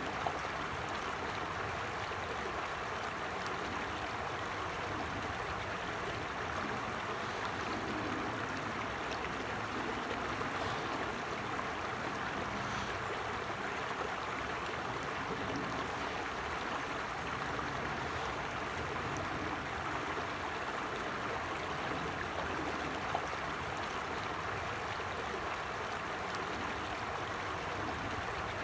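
A forest stream flowing steadily over rocks, an even rushing and babbling of water.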